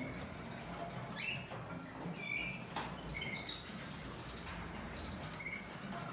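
Female canary giving short, scattered chirps, some of them quick rising notes, with a sharp click a little under halfway through.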